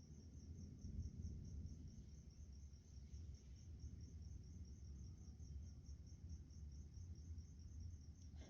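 A cricket chirping in an even, rapid pulse, faint, over a low rumble.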